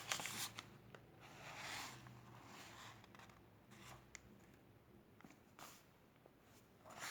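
Faint scratching and rustling of paper: a pen writing in an exercise book.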